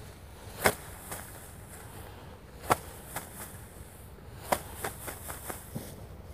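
Sheaves of rice being beaten by hand to thresh out the grain. There is a sharp strike about every two seconds, three in all, each followed by a few lighter knocks.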